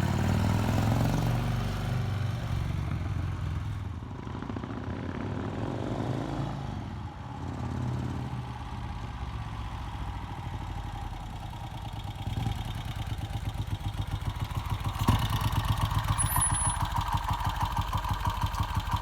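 Vincent Rapide's V-twin motorcycle engine running, with some revving in the first few seconds, then settling into a steady, evenly pulsing idle that grows louder about fifteen seconds in.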